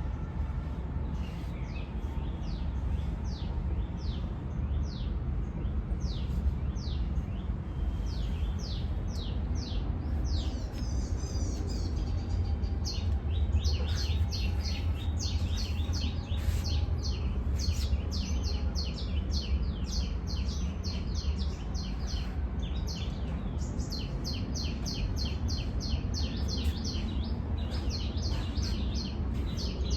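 Birds chirping: short downward-sweeping chirps, spaced apart at first and then in fast runs from about halfway in, over a steady low rumble.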